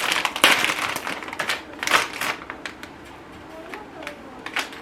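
Plastic snack bag being pulled open, a burst of crinkling and tearing over the first couple of seconds, then a few lighter crinkles and clicks as it is handled.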